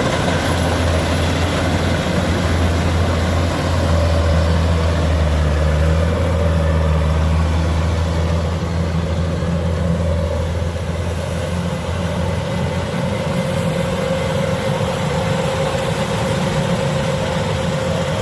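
Kubota DC-105X combine harvester's diesel engine running steadily with a deep hum. It grows a little louder a few seconds in and eases off slightly after about ten seconds.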